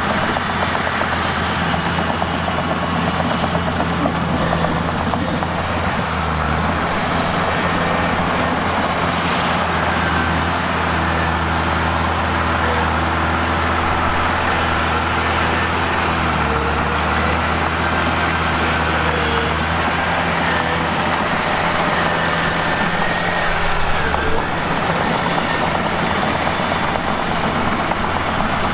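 Mitsubishi bulldozer's diesel engine running steadily as the machine works. Its note steps up and down several times.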